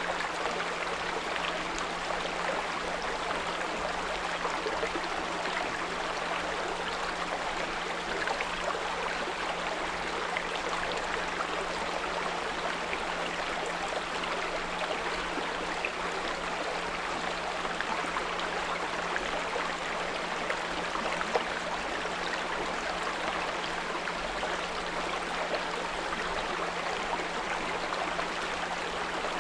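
A small brook flowing steadily, with a continuous rushing and trickling and small droplet ticks. Underneath it runs a steady low 174 Hz pure tone.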